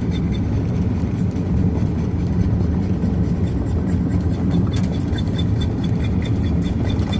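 Steady engine and road rumble of a vehicle driving, heard from inside the cab. A faint, regular ticking at about three or four a second comes in during the second half.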